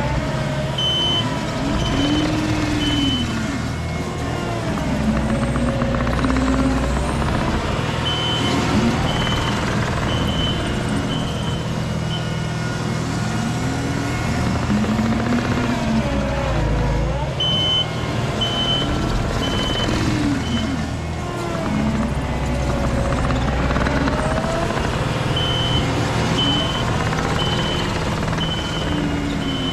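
Diesel excavation machinery working, its engine rising and falling in pitch under load, with a backup alarm beeping in four separate runs of several beeps, about one and a half beeps a second.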